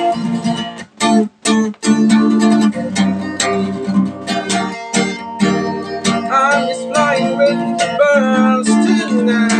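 Music: a song intro on strummed acoustic guitar. It opens with a few stop-start chords in the first two seconds, then strums steadily, with a sliding melody line over it from about six seconds in.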